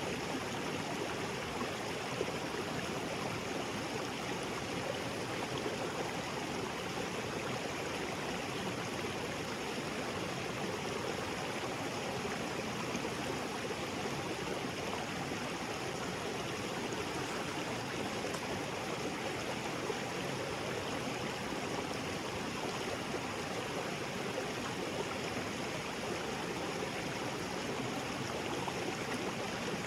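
Small waterfall spilling into a rocky creek: steady rushing and splashing water.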